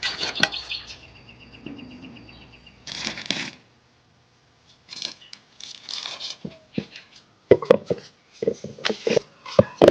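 Rustling and handling noises, then a quick run of sharp clicks and light knocks in the last couple of seconds.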